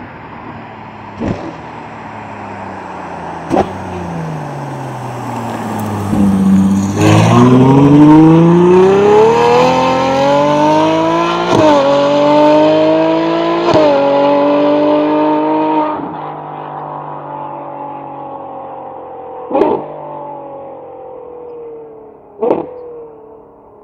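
Ferrari 812 Superfast's naturally aspirated V12, through a titanium exhaust with stainless downpipes, accelerates hard with the pitch climbing and shifts up twice. It then backs off, and the note falls away and fades. Sharp single cracks from the exhaust come a few times on the overrun, two of them near the start and two near the end.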